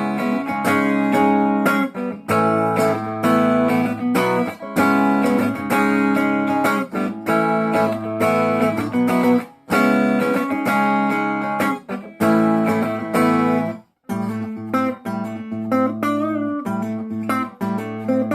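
Semi-hollow electric guitar (a Gibson ES Les Paul replica) played through an amp on its neck pickup with a clean tone: a run of strummed chords, a short break about 14 seconds in, then single picked notes with bent, wavering pitch. The tone is soft, deep and bassy with little of the semi-hollow 'quack', a little glassy.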